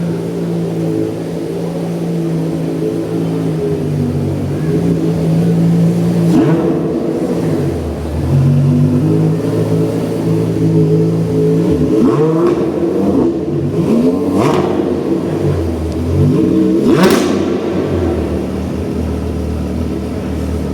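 A car engine running at a steady idle and revved four times in quick blips, the pitch sweeping up and falling back each time; the last rev, near the end, is the sharpest.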